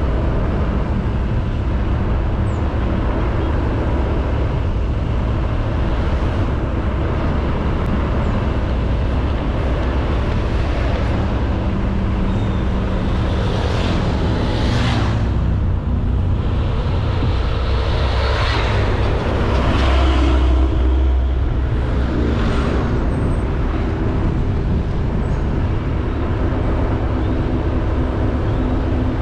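Honda Beat 110cc scooter's single-cylinder engine running steadily on the move, with traffic noise swelling up twice midway through as other vehicles pass.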